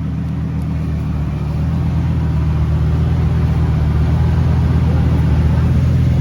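Lamborghini engine running steadily with a low, even note, growing a little louder over the first couple of seconds.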